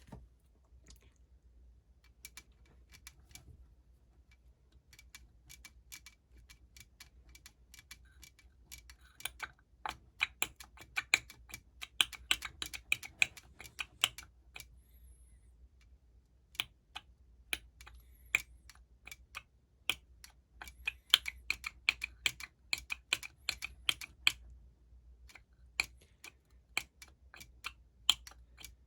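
Runs of light, sharp clicks from hand tools and small metal parts being worked during motorcycle engine assembly. They come sparse at first, then in quick dense runs around the middle and again near the end.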